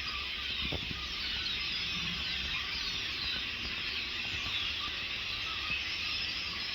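A flock of several hundred blackbirds calling together in a tree: a loud, continuous chatter of countless overlapping squeaks and whistles.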